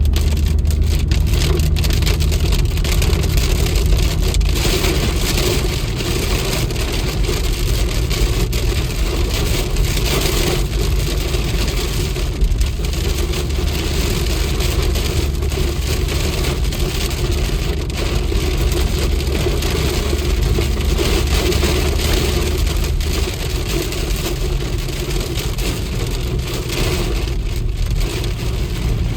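A vehicle engine running steadily under the even hiss of heavy rain.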